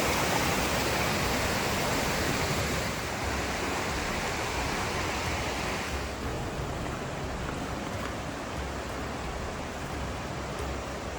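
Rushing water of a cascading creek, a steady hiss. About six seconds in, the brighter, higher part of the rush drops away and it turns duller and a little quieter.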